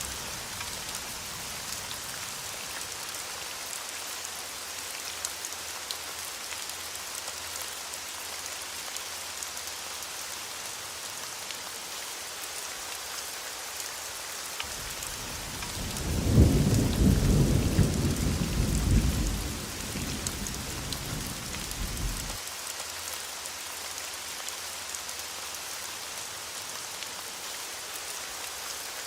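Steady heavy rain hissing throughout, with one long roll of thunder that builds about halfway through, rumbles for several seconds and fades away.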